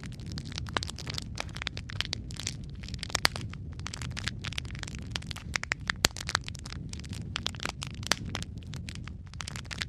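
Wood fire crackling, with many sharp, irregular pops and snaps over a steady low rumble of burning.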